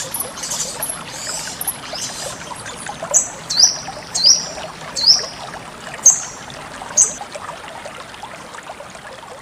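Steadily trickling water with a sogon (sunbird) calling over it. There are faint high chirps early, then six short, sharp calls between about three and seven seconds in, three of them quick rising notes. The sound fades slowly near the end.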